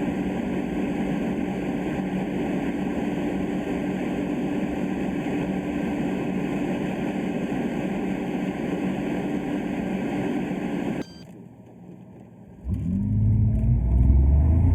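Mercedes M120 V12 in a 1979 W116 running at a steady high cruise, a constant drone with heavy road and wind noise. About eleven seconds in this cuts off to a low hum, and after a second and a half the V12 starts pulling hard, its pitch rising under full acceleration.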